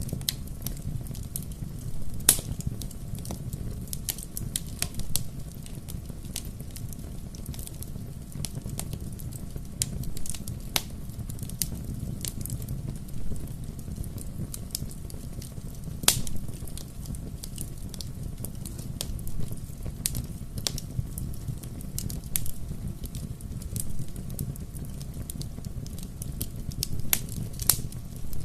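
Bonfire of burning wood crackling and popping continuously over a low rumble of flames, with a few louder pops about 2 seconds in, about halfway through and near the end.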